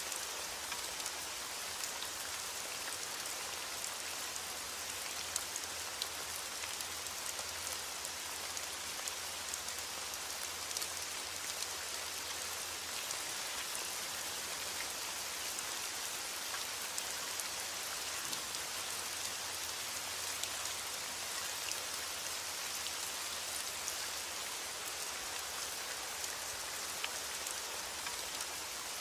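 Heavy rain falling steadily against a window, a dense even hiss with scattered faint ticks of individual drops.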